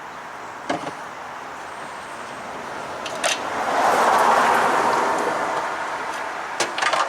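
A vehicle passing by: a rushing sound swells to a peak about four seconds in, then fades away, with a few short knocks near the start, the middle and the end.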